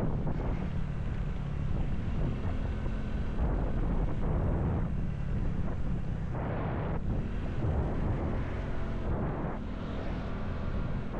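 Motorcycle engine running while riding along, with wind rushing over the microphone in gusts.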